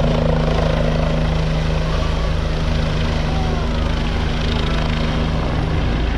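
Sheriff's helicopter running close by, a steady loud hum with two low tones over a rapid low rotor beat.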